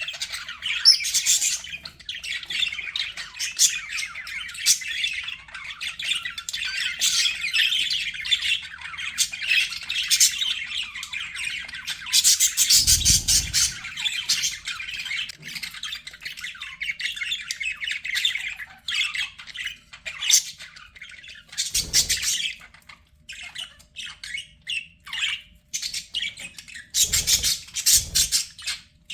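Budgerigars (budgies) chattering and warbling without pause, a dense run of quick chirps and squawks. A few short low thuds break in: about halfway through, and twice more in the last third.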